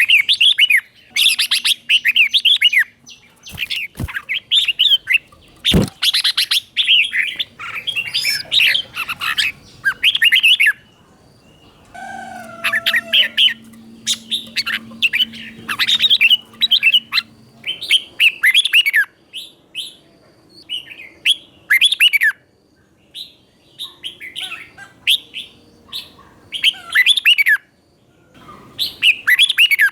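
Red-whiskered bulbul singing: quick, bubbly warbled phrases repeated over and over with short pauses between them. Two sharp knocks come in the first few seconds.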